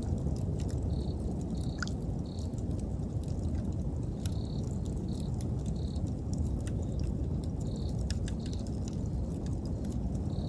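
Wood fire crackling, with scattered sharp pops over a steady low rush. Autumn insects are chirping in short high pulses, roughly once a second.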